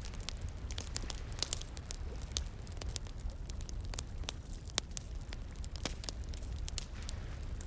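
Wood fire crackling, with sharp irregular pops and snaps several times a second over a low steady rumble.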